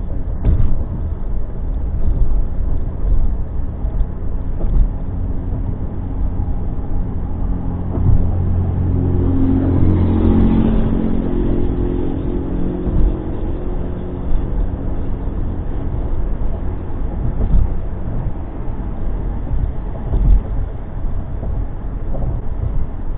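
Motor vehicle engine and road noise while driving. For a few seconds near the middle, a louder, steady engine hum stands out.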